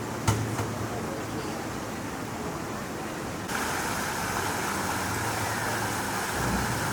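Steady hiss of rain in an outdoor theme-park ambience, with a sharp knock about a third of a second in and a fainter one just after. About halfway through, the hiss suddenly becomes louder and brighter.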